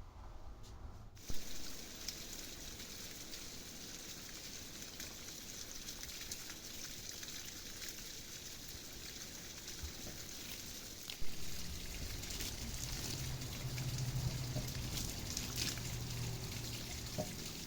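Water falling and trickling steadily, starting abruptly about a second in, with a sharp knock at that point and another about eleven seconds in.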